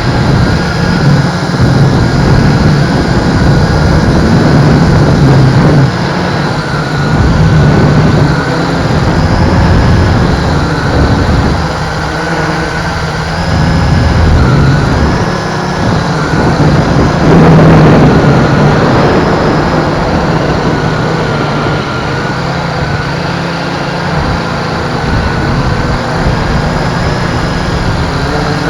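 MJX X101 quadcopter's propellers whining in flight, the pitch wavering as the motors work, over heavy wind rumble on the microphone in strong wind.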